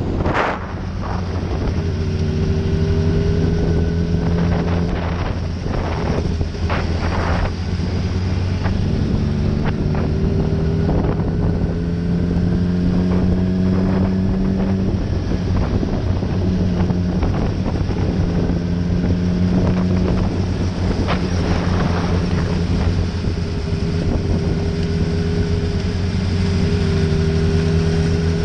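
Honda CBR600RR's inline-four engine running at cruising speed, its pitch rising slowly and dipping now and then, under steady wind noise on the microphone. A loud burst of wind noise comes about half a second in.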